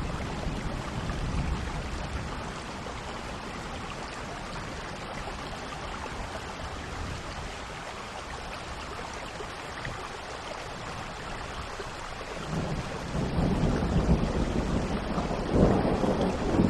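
Steady rain, with a low rumble of thunder building about twelve seconds in and growing loudest near the end.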